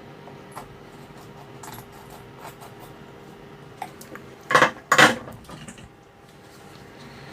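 Small hard metal objects being handled on a workbench: scattered light clicks, then two louder clattering knocks about four and a half and five seconds in. A faint steady hum runs underneath.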